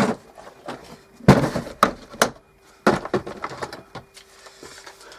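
Workshop tools being handled: a scatter of sharp knocks and clicks as a drill and its bits are picked up and set out, over a faint steady hum.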